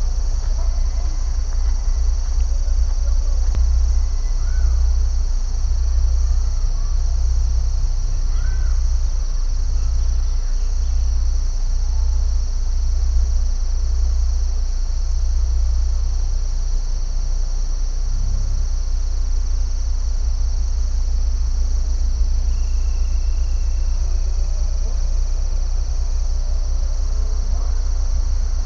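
A steady, high-pitched chorus of insects such as crickets shrilling without a break, over a constant low rumble. A few faint short bird chirps come and go.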